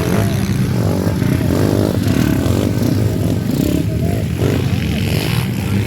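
Several motocross dirt bikes racing, their engines revving up and down in overlapping pitches over a dense, steady engine drone.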